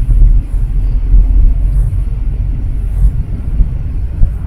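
Low, uneven rumble of a car driving, heard from inside the cabin.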